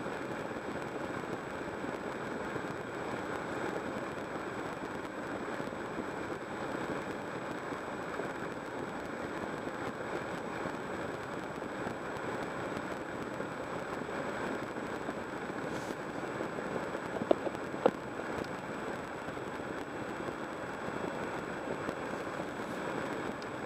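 A car's engine idling at a standstill, heard from inside the cabin as a steady hum. Two sharp clicks come about a second apart about three-quarters of the way through.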